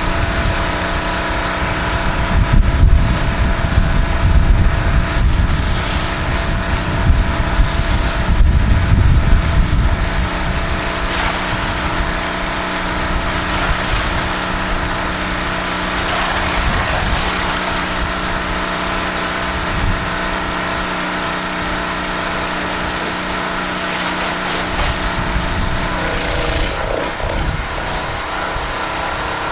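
Small gas engine of a pressure washer running steadily under load, with the hiss of the high-pressure spray over it during a rinse. A heavier low rumble comes and goes in the first ten seconds, and the sound changes near the end.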